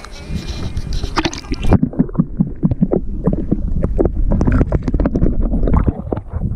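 Wind buffeting the microphone, then about two seconds in the sound turns suddenly muffled: water sloshing with many small knocks, as a just-caught largemouth bass is released from the kayak.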